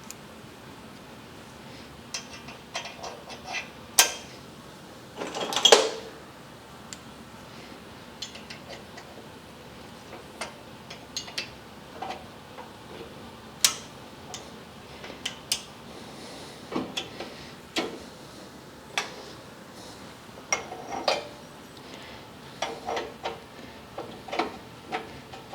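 Scattered metallic clinks, clicks and knocks of hand tools and steel hardware as a hydraulic cylinder and its mounting bracket are fitted together, with the loudest clanks about four and six seconds in and runs of quick clicks later on.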